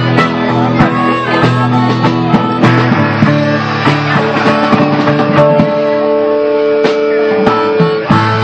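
Live rock band playing an instrumental passage: two guitars over a drum kit, with a long held note in the second half.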